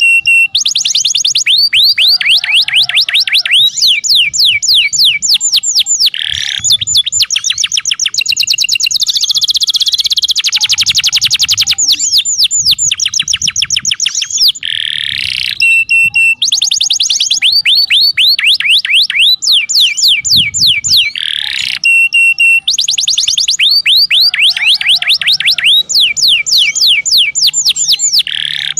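Domestic canary song: long, loud trills of rapidly repeated sweeping notes, switching to a new trill every few seconds with only brief pauses between phrases.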